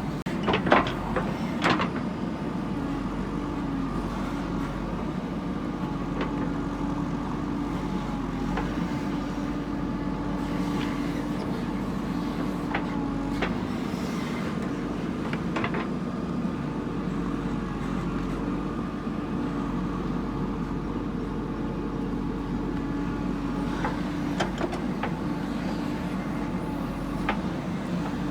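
Diesel engine of a construction machine running steadily. Two loud metallic clanks sound about a second apart near the start, with scattered lighter knocks later.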